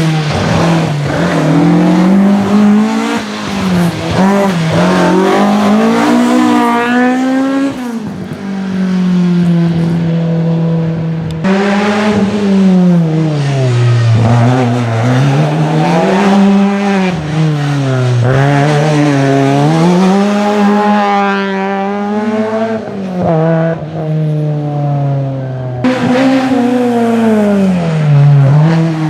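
Historic rally car engines working hard on a special stage, the pitch climbing and dropping over and over as they rev up and shift down. The sound changes abruptly about 11 and 26 seconds in.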